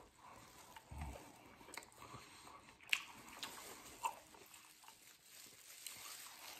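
Faint chewing and biting of buffalo wings, with a few soft clicks and rustles as a wing is handled from a paper bag and dipped in ranch.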